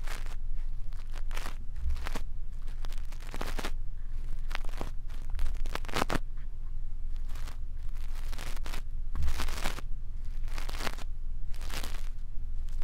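Brush scratching and sweeping against the microphone in ASMR ear cleaning: irregular scratchy strokes over a steady low hum.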